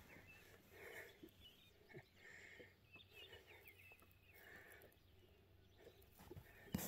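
Near silence, with faint short bird chirps and a few soft clicks.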